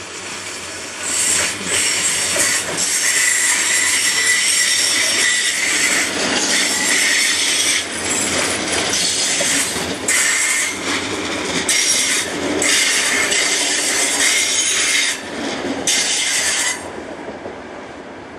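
Railway passenger cars of a departing train rolling past, their wheels squealing and hissing on the rails, with short dips in the sound every second or two. The squeal drops away sharply near the end.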